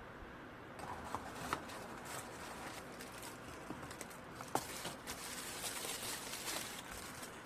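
Soft rustling with a few light clicks and taps, starting about a second in.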